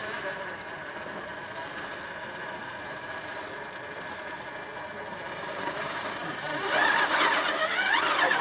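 Electric motor and gear drive of a radio-controlled scale rock crawler whining steadily, then getting louder with quick rises and falls in pitch about seven seconds in as it is driven hard up the rock.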